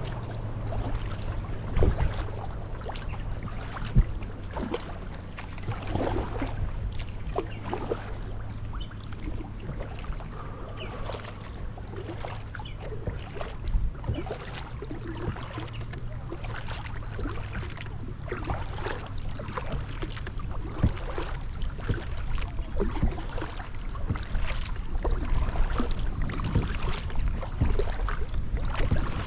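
Kayak paddling: irregular splashes of paddle blades in the water and small knocks against a Vintage R5 Riverrunner kayak's hull, over a steady low rumble.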